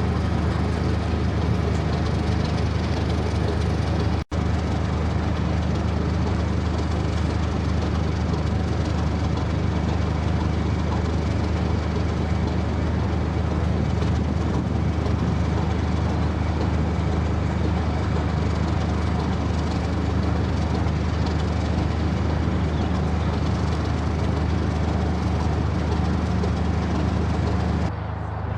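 Diesel locomotive engine running at a steady note, with a deep, even drone, briefly cut off about four seconds in.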